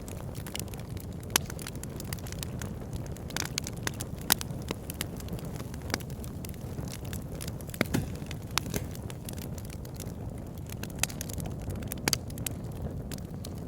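Wood logs burning in a fireplace: a steady low rumble of flame with frequent sharp crackles and pops, and a few louder snaps scattered through.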